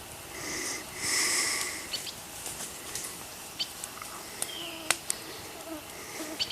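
Two short breathy puffs of air, about half a second and a second in, followed by scattered light clicks and snaps.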